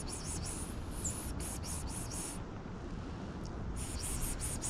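Birder pishing: quick breathy 'psh, psh' hisses through the teeth, used to draw a hidden songbird out to investigate. A run of about nine hisses over the first two and a half seconds, a pause, then another run near the end.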